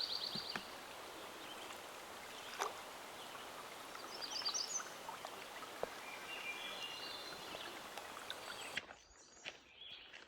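Songbirds singing over a steady outdoor hiss: a fast high trill at the start, a short warbling phrase near the middle, then a run of repeated notes. Near the end the hiss cuts off abruptly, leaving a quieter background with a few clicks.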